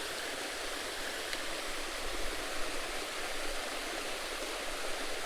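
Steady rushing of creek water pouring over a small waterfall.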